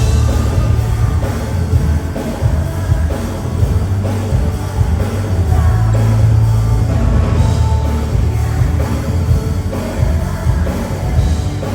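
Loud live rock music with singing and a heavy, booming bass, as heard in the crowd at a concert.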